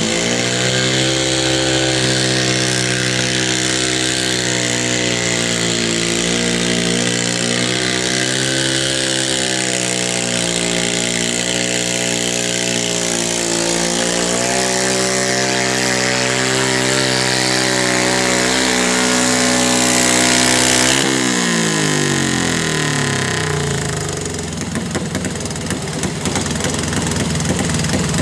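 Pulling tractor's engine running hard at high, slightly wavering revs under load. About three-quarters of the way through the pitch falls steeply as the throttle comes off, and the engine drops to a rougher, lower running.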